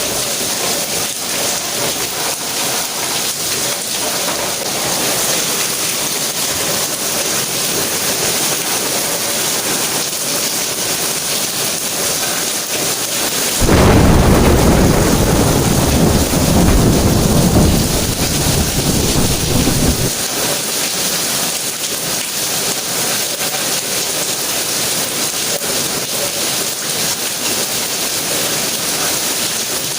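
Steady rain falling. About halfway through, a loud rumble of thunder comes in suddenly, lasts several seconds, and cuts off abruptly.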